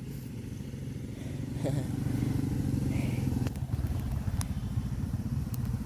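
Small motorcycle engine running with a fast low putter, growing louder about a second and a half in as the throttle opens and the bike pulls away, then holding steady.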